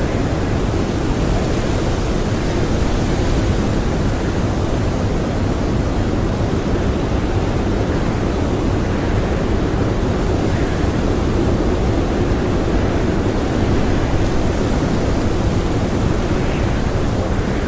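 Blizzard wind blowing hard and steadily, a deep, even rush with no letup.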